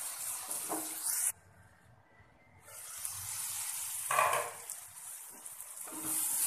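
Tomato and onion masala sizzling in oil in a kadai while a spatula stirs it, with a short scrape of the spatula a little after four seconds. The sizzle cuts off abruptly about a second in and comes back over a second later.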